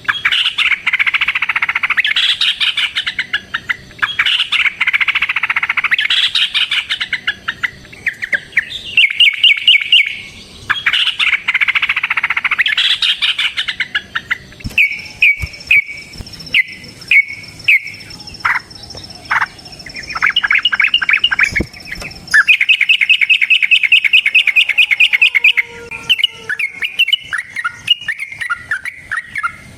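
Yellow-vented bulbul (trucukan) singing long, fast rolling phrases of rapidly repeated chattering notes, one run after another with brief breaks.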